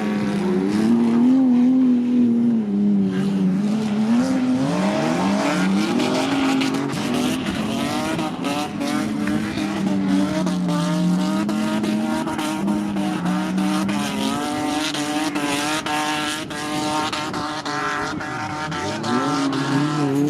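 Several banger racing cars running together round an oval, their engines revving up and easing off in overlapping, rising and falling pitches, with many short knocks and clatters.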